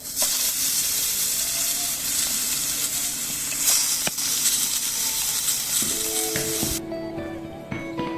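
Food sizzling loudly and steadily on the heat; it cuts in abruptly and stops near the end as plucked acoustic guitar music comes in.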